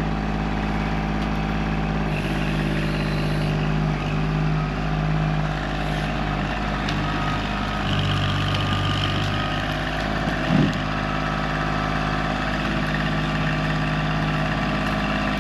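Kubota tractor engine running steadily, its note shifting a little partway through as the revs or load change. There is one brief, louder knock about ten seconds in.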